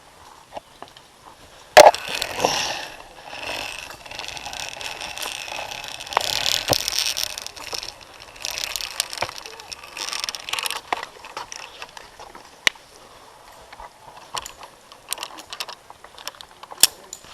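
Harness gear on a steel course cable: a sharp metal clank about two seconds in, then several stretches of rolling, scraping noise as the gear runs along the cable, with scattered clicks near the end.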